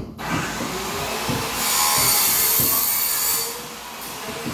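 Loud machine noise from work going on nearby, starting suddenly and at its loudest in the middle as a harsh rushing hiss, then easing a little.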